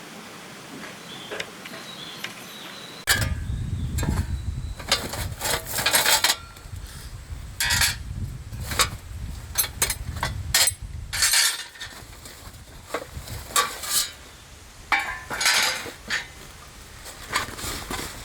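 Steel pieces of a homemade welded fire-pit stand clinking and clanking as they are handled and fitted together. The sharp metal knocks start about three seconds in and come in irregular clusters, over a low rumble that fades out about eleven seconds in.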